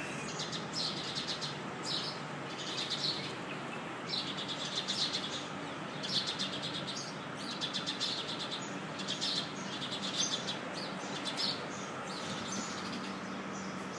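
Small birds chirping: short, rapid trilled bursts about once a second over steady background noise.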